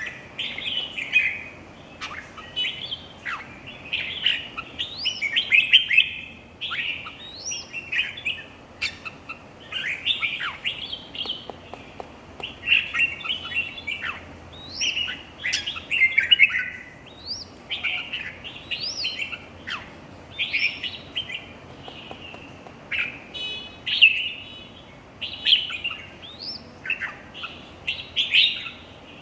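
Red-whiskered bulbul singing: short, quick, warbled phrases with sharp upward-sweeping notes, one after another about every second.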